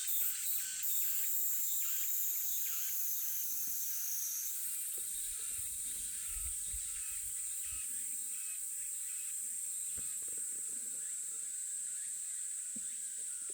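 A high-pitched chorus of summer insects buzzing steadily, pulsing briefly at the start, with one voice stepping up in pitch about four and a half seconds in.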